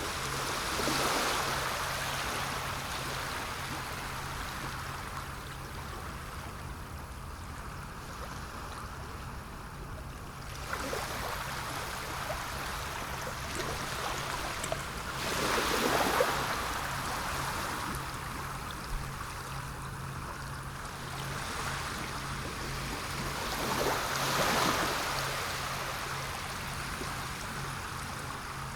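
Sea waves washing in: a steady rush of water that swells three times, about a second in, around the middle and near the end, as waves break and draw back. A steady low hum runs underneath.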